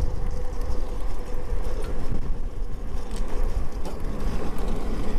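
Strong wind buffeting the microphone on a moving electric bike, a dense, steady low rumble, with a faint steady whine over the first couple of seconds.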